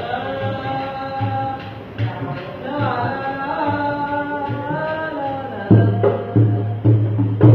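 Live puppet-show music: a singer's voice over a hand drum. About two thirds of the way in the singing stops and the drum plays loud strokes, about two a second.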